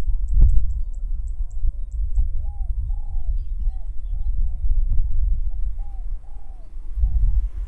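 A dove cooing over and over, short rising-and-falling coos, over a heavy low rumble of wind on the microphone. A rapid high ticking call runs for the first two seconds or so, and there is one sharp knock about half a second in.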